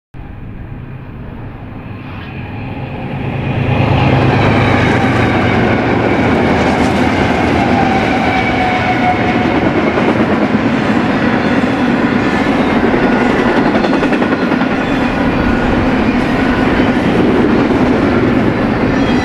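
Double-stack container freight train passing close by: a steady loud rumble and clatter of wheels on the rails that builds over the first four seconds, with thin high ringing tones above it.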